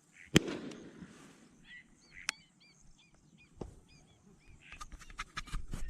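Ducks calling, a run of short repeated calls, after one sharp crack about a third of a second in; clicking and rustling near the end.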